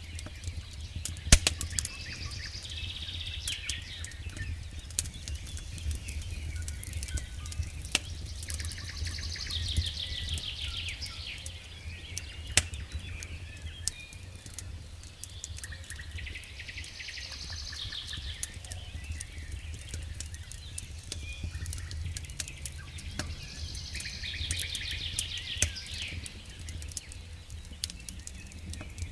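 Campfire crackling with scattered sharp pops over a steady low rumble, while a songbird sings a short trilled phrase that falls in pitch, four times, roughly every seven seconds.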